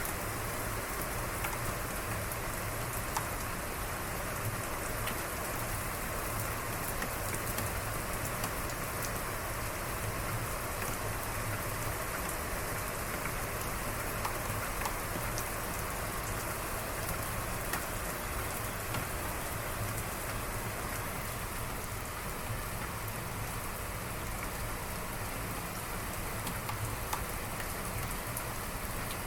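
Steady rain falling, with scattered sharp ticks of single drops striking.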